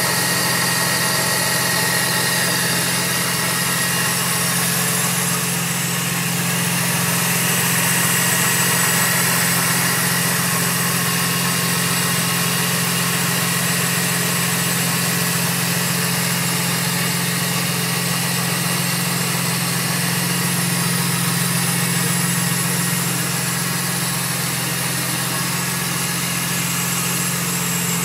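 Supercharged BMW Z4 M's S54 straight-six idling steadily after a cold start, heard close up in the engine bay with the VT2-500 supercharger and its belt drive spinning.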